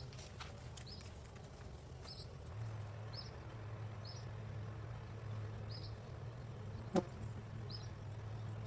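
Low steady hum of a honeybee hive, with a bird giving short high chips about once a second. A single sharp click comes about seven seconds in.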